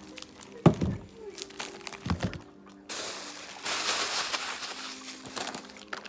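Plastic bag crinkling and rustling as it is handled, for about two and a half seconds past the middle, after two short knocks in the first two seconds.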